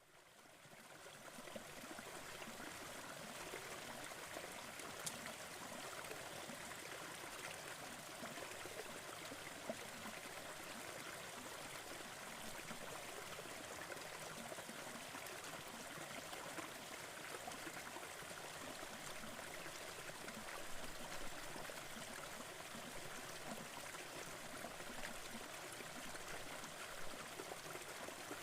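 Wood fire crackling in a fireplace over a steady rushing noise bed, fading in over the first couple of seconds, with a few faint sharp crackles.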